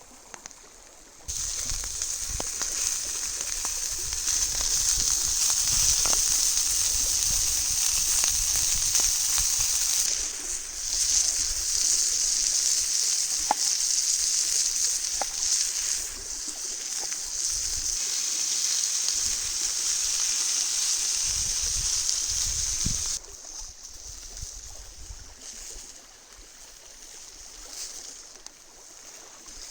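Food sizzling in a cast iron pan over a campfire: a steady hiss with a few small pops, cutting in sharply about a second in and stopping abruptly near the end, leaving a fainter hiss.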